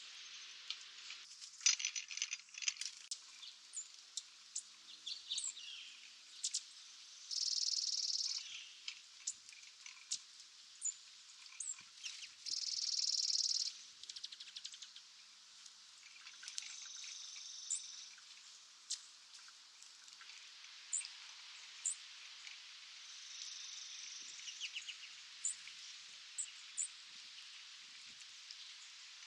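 Small birds chirping outdoors: many short, high chirps and ticks, with two high buzzy trills of about a second each, the second one longer, over a faint steady hiss.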